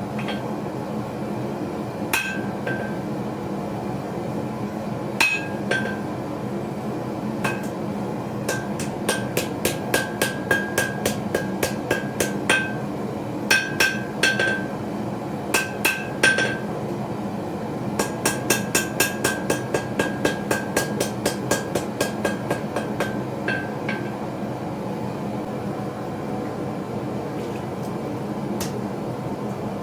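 Hammer blows on steel on an anvil while forging a small knife blade: runs of sharp, ringing strikes about two to three a second with short pauses between runs, stopping about three-quarters of the way through. A steady hum runs underneath.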